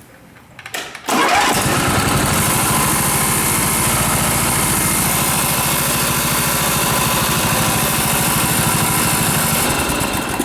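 Simplicity garden tractor's engine cranked by its starter and catching almost at once about a second in, then running steadily with an even pulse. It is a restart test after a starter that ran hot and would not restart was traced to a main ground barely touching, now fixed with longer engine bolts.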